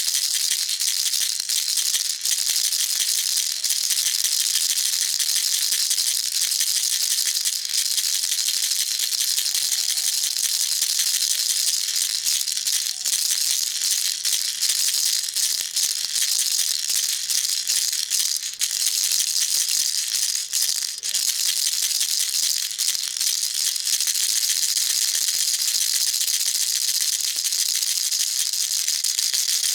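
Baby rattle shaken without a break: a dense, steady rattling with a few momentary dips.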